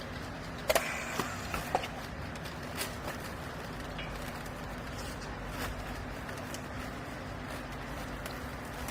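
Steady hum of a hydraulic baler's electric motor and pump running. A few sharp metallic clanks come about a second in, and fainter knocks follow later.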